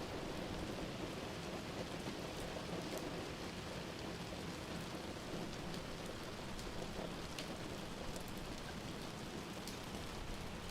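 Steady rain with a wood fire burning in a fireplace, a few faint sharp crackles standing out over the rain.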